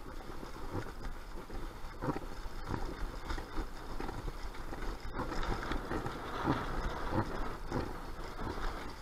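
Strong, gusty wind buffeting the microphone: a continuous low rumbling rush with uneven surges every second or so.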